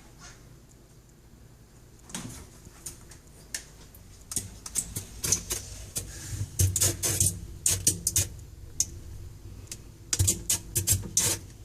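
Refrigerator defrost cycle: meltwater dripping onto the defrost heater coil sputters, popping and crackling in irregular snaps that start about two seconds in and grow busier toward the end. A normal sign of the defrost cycle melting ice off the evaporator.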